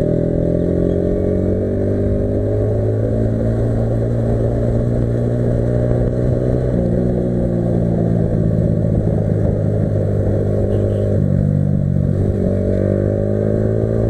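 Yamaha R15 V3 motorcycle's 155 cc single-cylinder engine running under way. Its pitch rises at the start and again near the end as it accelerates, with sudden pitch steps in between.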